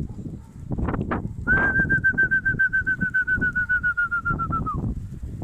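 A long trilled whistle on one high note, pulsing about ten times a second for some three seconds and dipping slightly as it ends: a pigeon keeper's whistle urging his pigeons to keep flying. Strong wind buffets the microphone throughout.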